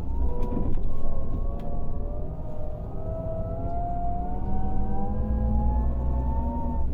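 Scania K400 coach's six-cylinder diesel engine pulling under acceleration, its low rumble topped by a whine that rises slowly and steadily in pitch. Near the end the pitch drops back, as at a gear change.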